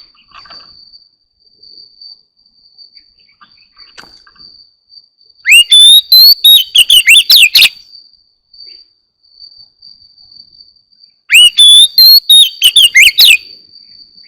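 Oriental magpie-robin singing two loud phrases of rich, fast-gliding whistled notes, each about two seconds long, the first about five seconds in and the second near the end. A faint steady high-pitched insect trill runs underneath.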